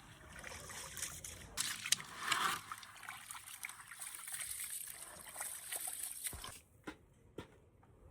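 Water trickling and splashing with small clicks, which stops suddenly about six and a half seconds in.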